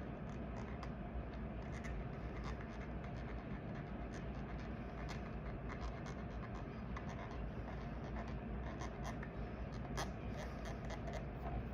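Light scratching and small scattered clicks from hands spreading thread lock onto the threads of a grip trainer's screw-in part, over a steady low hum.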